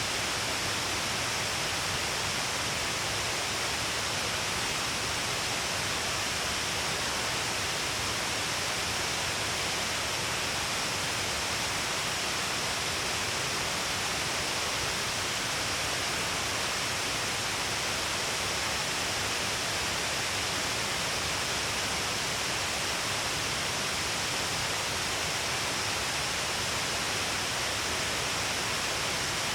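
A broad waterfall, many falls of water spilling along a cliff face, giving a steady, unbroken rushing hiss with no lulls.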